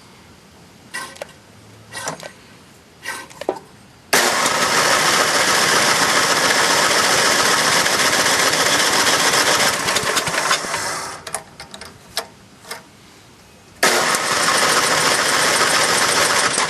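Electric starter cranking a John Deere 10 hp snowblower engine that won't catch after long storage. A few short knocks come in the first seconds, then it cranks for about six seconds, sputters briefly, and cranks again near the end. The owner takes the failure to start for a fuel problem, probably a dirty carburettor.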